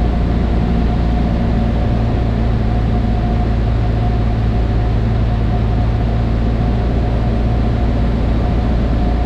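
Cessna 152's four-cylinder Lycoming O-235 engine and propeller running at a steady setting, heard as a constant drone inside the cockpit.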